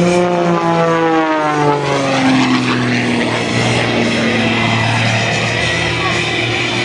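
Zivko Edge 540 aerobatic plane's piston engine and propeller passing by. Its pitch falls over the first few seconds, then settles into a steady lower drone as the plane moves away.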